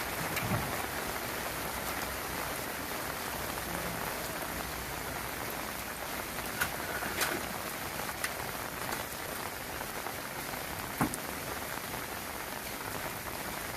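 Steady rain falling on hard surfaces, with a few sharper drop strikes around the middle of the stretch.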